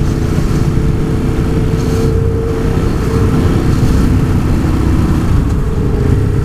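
Motorcycle engine running steadily while riding in traffic, with wind rush over it.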